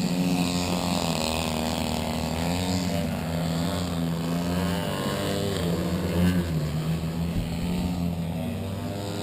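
Engine of a giant-scale radio-control aerobatic model airplane running in flight, its pitch stepping up and down with throttle changes and sweeping as the plane manoeuvres.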